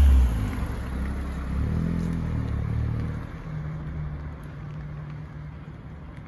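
2018 Honda Civic Sport's turbocharged four-cylinder engine, fitted with an aftermarket blow-off valve, revved: the revs drop off at the start with a short fading hiss, rise again in a smaller blip about two seconds in, then settle to a steady idle.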